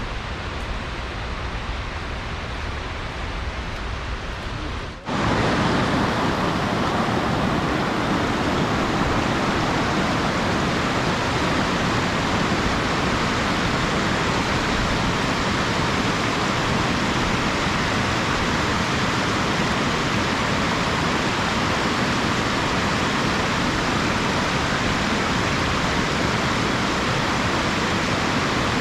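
Rushing water of a mountain waterfall stream, a steady unbroken rush. About five seconds in it cuts abruptly to a louder, fuller rush of water.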